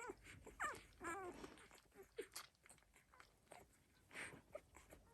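Eight-day-old Dalmatian puppies giving a few faint, high squeaks and whimpers in the first second and a half, amid soft shuffling and small clicks as they move about.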